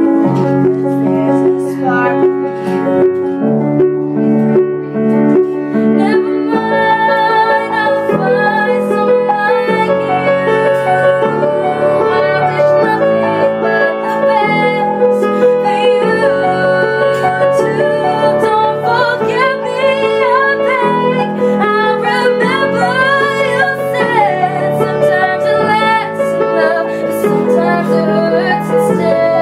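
Piano playing chords, with a woman singing over it from about six seconds in.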